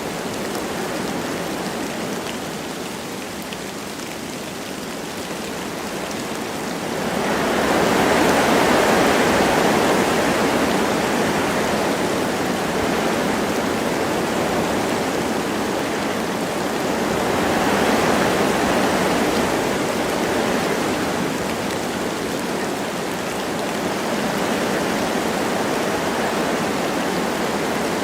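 Wind blowing through forest trees with light rain falling, a steady rushing hiss. The wind swells into a louder gust about seven seconds in and another around eighteen seconds, then eases back.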